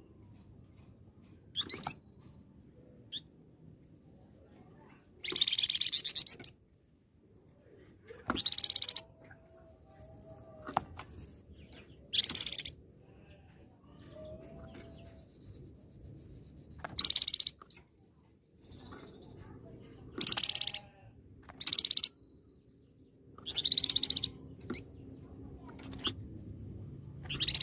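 A songbird of the kind Indonesian keepers call 'flamboyan' singing loud, short, high bursts of song, about eight phrases with pauses of a second or more between them.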